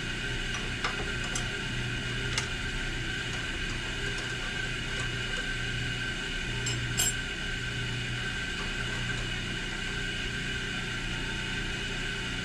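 A few sharp metallic clicks and clinks of tools and lathe parts being handled while a tap is set up in the chuck, over a steady machine hum; the clearest clink comes about seven seconds in.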